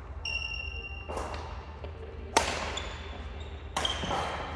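Badminton rackets striking a shuttlecock in a doubles rally: three sharp hits roughly a second and a half apart, the loudest about halfway through, with short high squeaks of shoes on the court between them.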